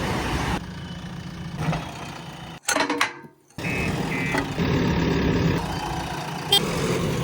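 Heavy vehicle engine running, cut off abruptly a few times with a short silence about three seconds in, and a brief high tone twice around four seconds.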